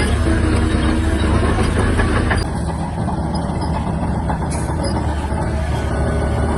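Diesel engine of a Shantui DH17-C3 crawler bulldozer running steadily with a low drone. The sound eases off a little about two and a half seconds in.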